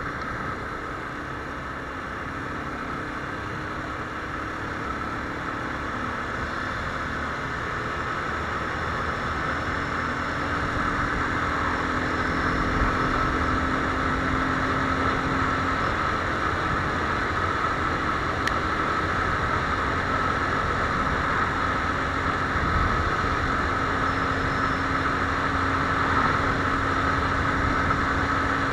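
Viper R2 motorcycle engine running steadily while under way, growing louder over the first ten seconds or so and then holding steady.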